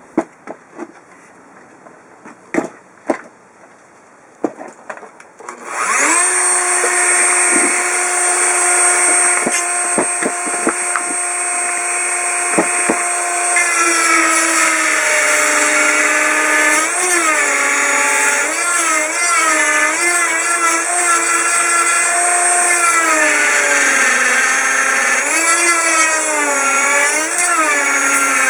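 A few knocks, then a self-propelled lawn mower's engine starts about six seconds in and runs loudly. Its pitch holds steady at first, then dips and rises again and again from about halfway on.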